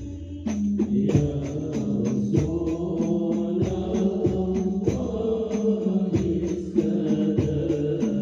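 Male voice singing a devotional chant over a steady hand-drum beat.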